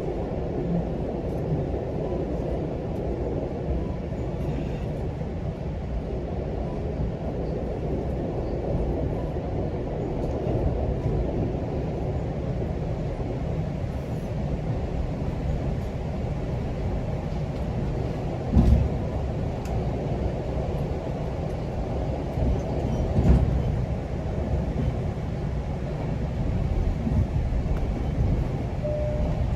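GO Transit commuter train running along the track: a steady low rumble of wheels on rails, with two heavier knocks in the second half.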